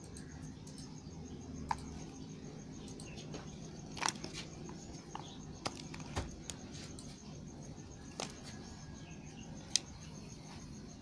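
Bar soap being handled and cut, giving sparse, crisp clicks and scrapes over a low steady hum.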